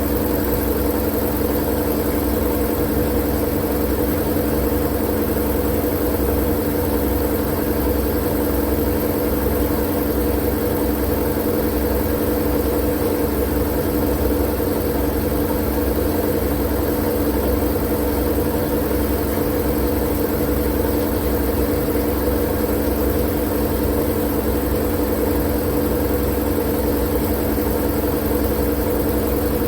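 Continuous white-noise sleep sound: a steady, unchanging hum with a hiss over it and no breaks.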